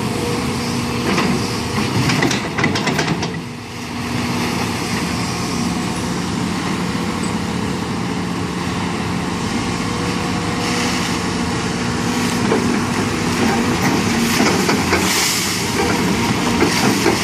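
Heavy construction machine's diesel engine running steadily, with a short dip about three and a half seconds in.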